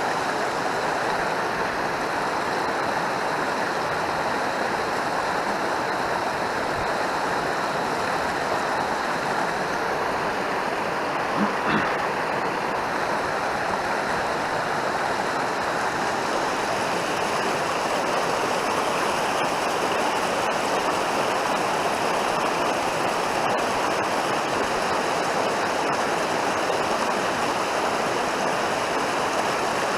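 Mountain stream rushing steadily over rocks, with a brief short sound about twelve seconds in.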